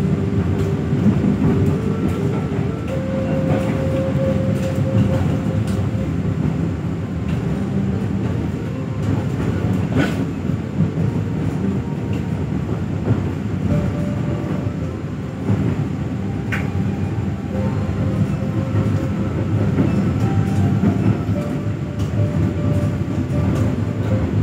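Moving passenger train heard from inside the coach: a steady rumble of the wheels running on the rails, with a couple of sharp clicks from the track along the way.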